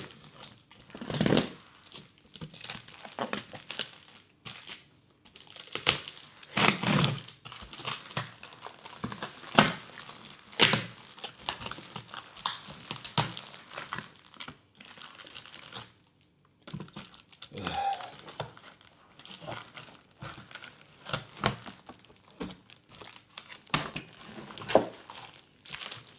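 Packaging being pulled and torn open by hand: irregular crinkling and tearing, with a few louder rips and short pauses.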